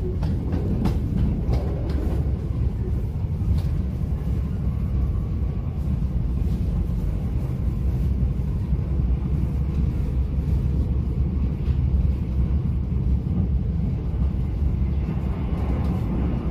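Mugunghwa-ho passenger train running: a steady low rumble, with a few faint clicks in the first few seconds.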